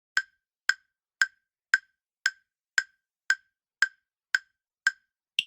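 Countdown timer ticking sound effect: eleven short ticks, about two a second, the last one higher in pitch.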